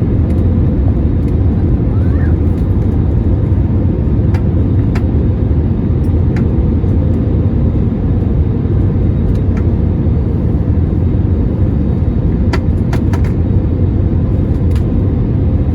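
Steady low rumble of airliner cabin noise, with a few faint clicks scattered through it.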